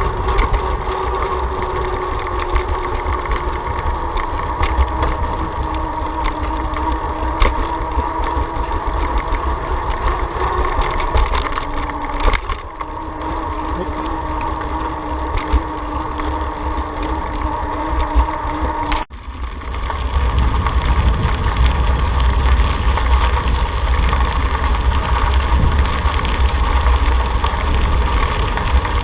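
Steady ride noise: wind rushing over the microphone, with a vehicle's steady hum underneath. It cuts out for a moment about two-thirds of the way through, then returns with heavier wind rumble.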